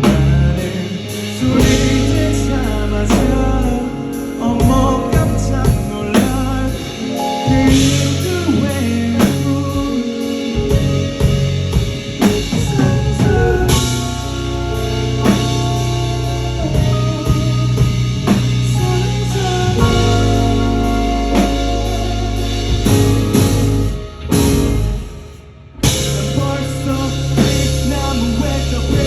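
Live rock band with drum kit, bass and electric guitar playing a song in concert. The band drops away briefly near the end, then comes back in at full level.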